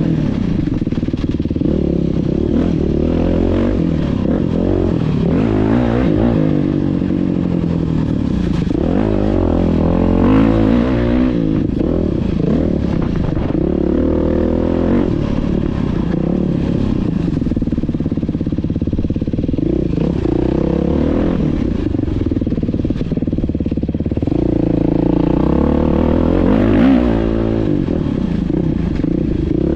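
Beta dirt bike engine running under load while being ridden off-road, its pitch rising and falling constantly as the throttle is opened and closed.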